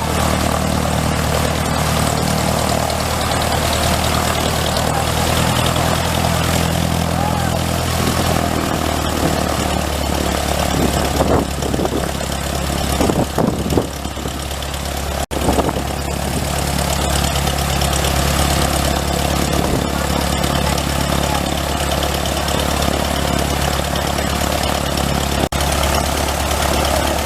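Light aircraft's piston engine and propeller running steadily at idle, a low even drone.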